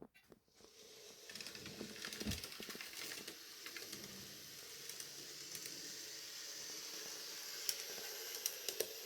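N gauge Graham Farish Class 158 model unit running on the layout track with its sound switched off, the motor and wheels making a steady hiss that builds over the first second or two. Scattered light clicks come through near the end.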